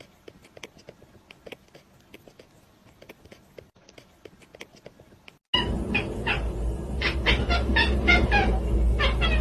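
Faint, scattered clicks and taps, then about five and a half seconds in a sudden louder stretch with a low hum underneath: a cat giving a quick run of short meows, several a second.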